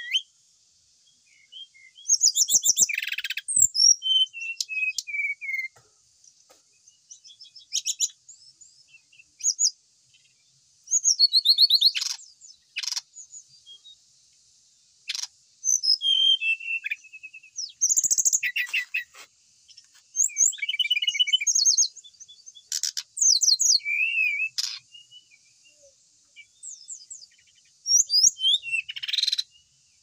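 Brown-chested jungle flycatcher singing in short, varied bursts of rapid chirps, trills and whistled notes, with brief pauses between phrases; about four seconds in, one phrase is a falling run of notes.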